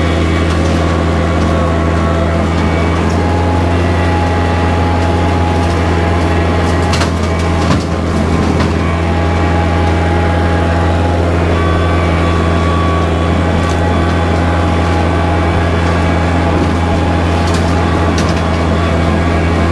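Kubota tractor's diesel engine running loud and steady at constant speed while bush hogging, with the rotary cutter turning. A few brief sharp clicks or snaps come through over the engine.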